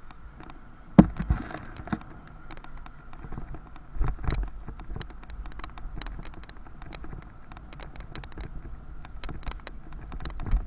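A bicycle rattling and clicking as it rides over an uneven street, with heavier thumps from bumps about a second in and about four seconds in.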